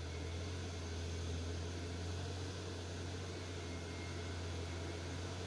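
Steady low drone of a loaded truck's diesel engine pulling uphill, with an even hiss over it.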